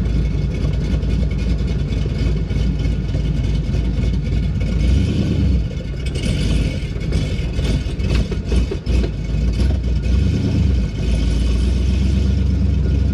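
Pontiac Trans Am engine running as the car drives slowly, its note shifting with the throttle about five and ten seconds in. A stretch of clattering and rattling comes in the middle.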